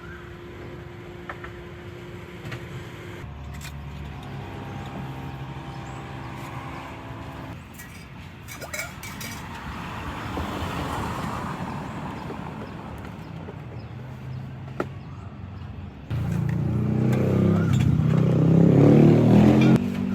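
Road traffic passing close by: engines running and vehicles going past, with a much louder vehicle rumble from about three-quarters of the way in to the end.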